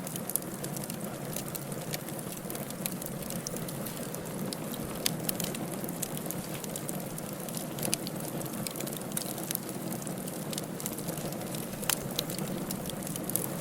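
Firewood burning in a fireplace: a steady low rush of flame with frequent sharp crackles and pops, a few of them louder than the rest.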